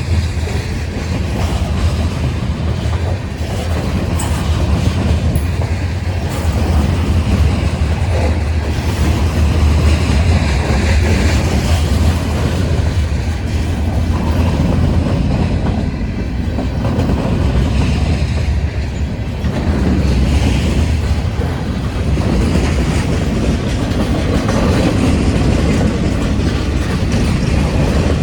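Freight train's cars rolling past, wheels clacking over the rail joints over a steady low rumble.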